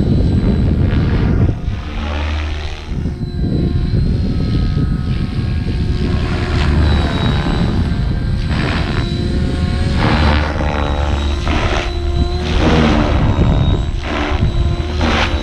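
Logo 600 radio-controlled helicopter in flight: the rotor and drivetrain whine keeps swinging up and down in pitch as it manoeuvres, over a heavy low rumble of rotor wash.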